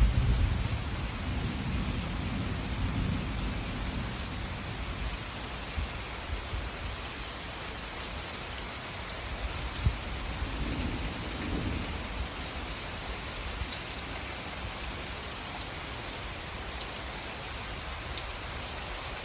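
Steady rain in a thunderstorm, with thunder rumbling low in the first few seconds and again about ten seconds in, where a single sharp crack stands out.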